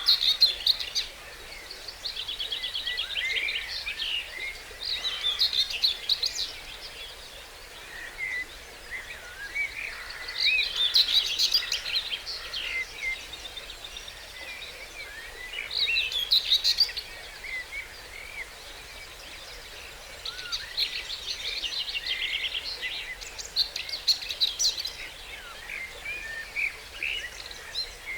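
Dawn chorus of several songbirds, led by one bird singing loud, fast trilled song phrases about two seconds long, repeated every few seconds, with other softer calls and chirps between them.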